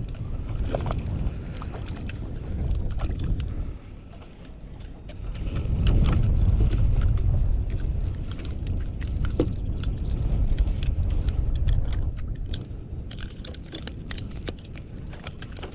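Wind buffeting the microphone in a low, uneven rumble that eases about four seconds in and builds again, with scattered small knocks and clicks from handling gear on a small boat.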